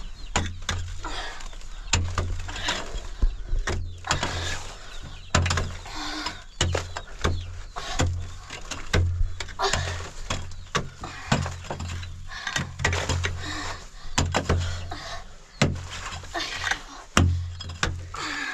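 Irregular knocks and thuds, several a second at times, with rough scraping noise between them.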